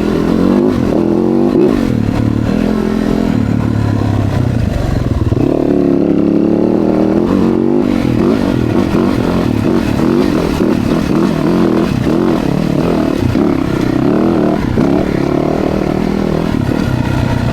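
Dirt bike engines revving up and down over a rocky trail, the pitch rising and falling continuously, with some clatter.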